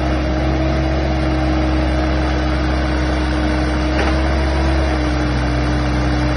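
Kubota mini excavator's diesel engine running steadily during a test of its repaired hydraulic pump: a constant hum with a held tone above it that shifts slightly in pitch, and a single click about four seconds in.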